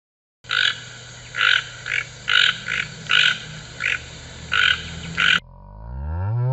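A frog croaking over and over: about nine short croaks in five seconds, some in quick pairs, after a brief silence. Near the end the croaking cuts off and a cow's moo begins, rising in pitch.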